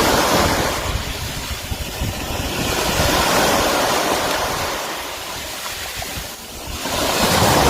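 Surf washing in and out in slow swells, with wind rumbling on the microphone.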